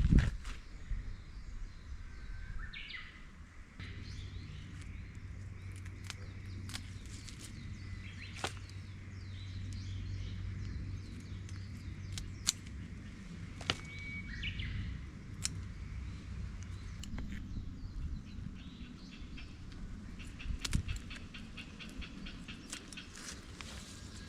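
Outdoor ambience on a wooded hillside: a small bird calls briefly twice, a few seconds in and again about midway, over scattered light clicks and a low steady hum.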